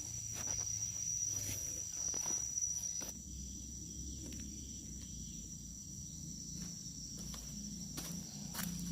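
Insects trilling steadily in one continuous high-pitched tone, with a low rumble beneath and a few soft taps.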